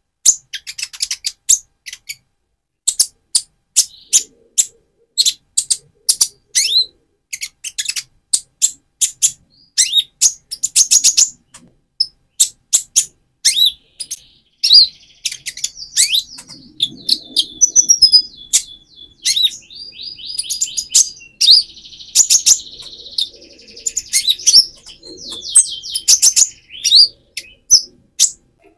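Young purple-throated sunbird singing: a fast run of sharp, high chirps and short down-slurred notes that thickens from about halfway into dense, buzzy trills.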